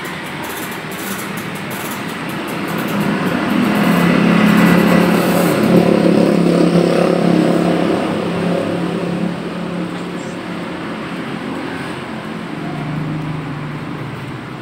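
Yamaha F1ZR's two-stroke engine revving up about three seconds in, held high for several seconds, then dropping back, with a shorter rise near the end, as the carburettor is being set.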